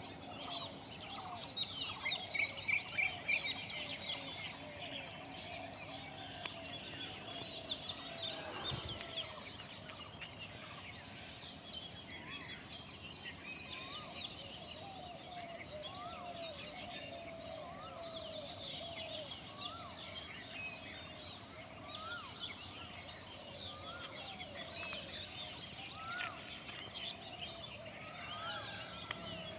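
A chorus of many birds calling at once: a dense run of high chirps over lower, wavering calls, with a brief low bump about nine seconds in.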